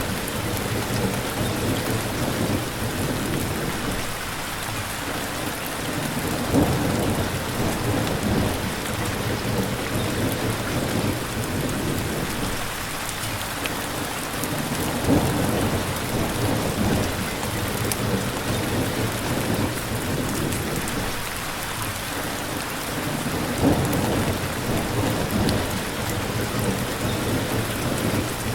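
Steady rain pattering, with a low rumble of thunder swelling and fading three times.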